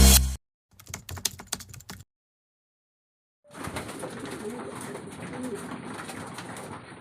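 Domestic pigeons cooing softly over a steady background noise, coming in about three and a half seconds in after a silent gap. Before that, a brief run of clicking sounds comes about a second in, and electronic music cuts off at the very start.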